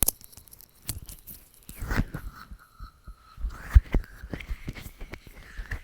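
A person's heartbeat recorded up close: low, dull thumps every second or two, with scratchy rustling in between and a faint thin high whistle that rises slightly partway through.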